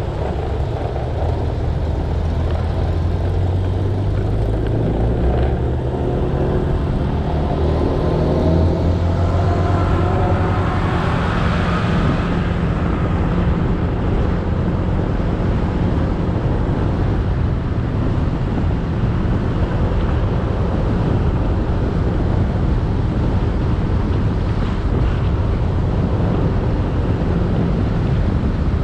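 Motorcycle engine running under way, with wind rushing over the camera microphone. About ten to twelve seconds in, the sound of another engine rises in pitch, swells to a peak and fades.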